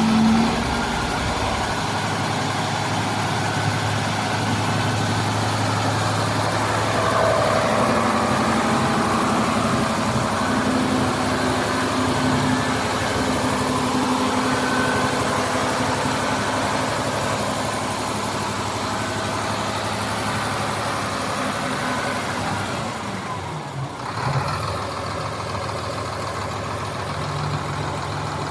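HOWO dump truck's diesel engine running steadily while its PTO-driven hydraulic system works the tipper body. About 23 seconds in, the engine note falls and changes, with a short knock.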